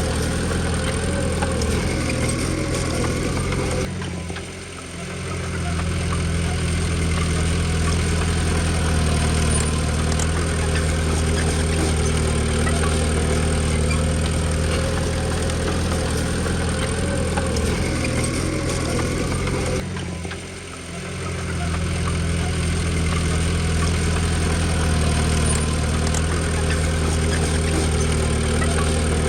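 Diesel engine of a Komatsu D20P small crawler bulldozer running steadily. Twice, about four seconds in and again near the twenty-second mark, the sound drops away suddenly and builds back up over a second or two.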